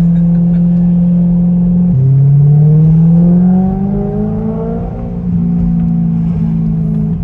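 2011 BMW M3 E92's 4.0-litre V8 running with both mufflers removed, heard from inside the car: a steady, drony exhaust note that drops suddenly about two seconds in, then rises with engine speed over the next two seconds and settles higher. The exhaust is super loud and drony because the mufflers have been taken off behind the resonators.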